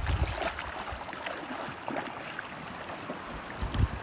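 Shallow sea water sloshing and splashing around someone wading, with many small splashes and a dull thump near the end.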